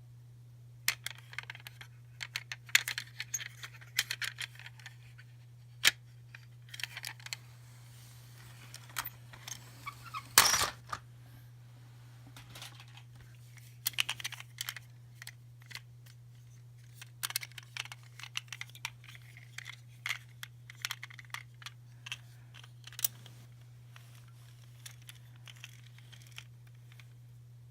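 Small plastic toys and wrappers being handled: scattered clicks, taps and short crinkling rustles, with the loudest rustle about ten seconds in, over a steady low hum.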